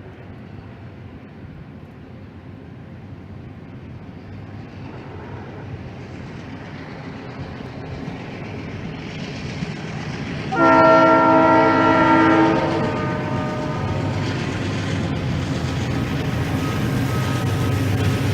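A train approaching, its rumble growing steadily louder. About ten seconds in, the locomotive's horn sounds, a multi-note chord held for about two seconds and the loudest thing heard.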